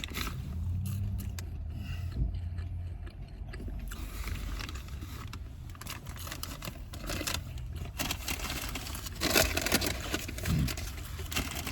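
Close-up chewing and biting on food, with scraping and crinkling of packaging at intervals, over a steady low hum.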